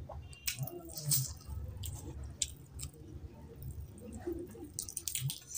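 Wet, squishy chewing of spicy chicken curry and rice, with irregular sticky smacks and clicks, while hands tear at a curry-coated piece of chicken.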